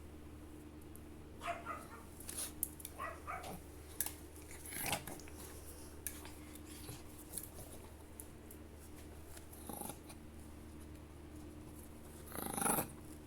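Chihuahua making short growling sounds in bursts while playing, the longest and loudest near the end, over a steady low hum.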